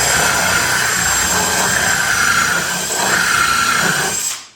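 Electric power tool running steadily with a high whine, under a slight change of load about three seconds in, then stopping abruptly near the end.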